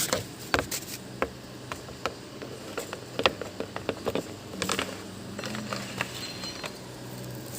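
Scattered clicks and light knocks of a birdcage's trays and parts being handled and fitted back in, over a faint steady low hum.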